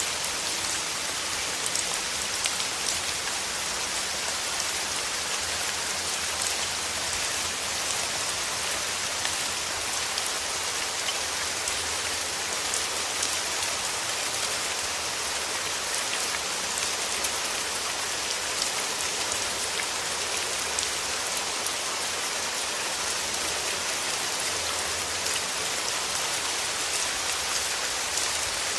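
Steady rain falling without a break, an even hiss with many small drop ticks.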